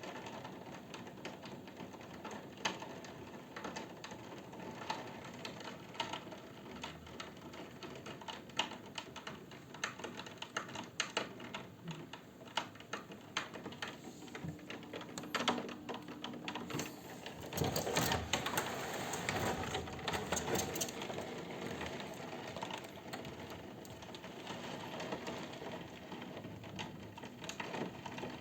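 Rain during a thunderstorm, drops tapping rapidly and irregularly on a hard surface, with a louder rush of sound for a few seconds about two-thirds of the way in.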